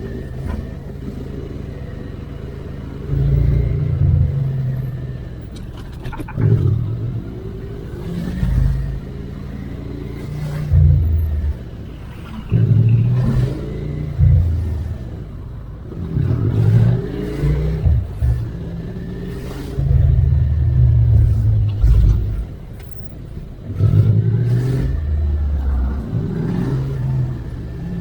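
Suzuki SV650X's V-twin engine revving up in repeated bursts of acceleration every few seconds, the pitch stepping as it shifts through gears, with steadier, quieter running between bursts.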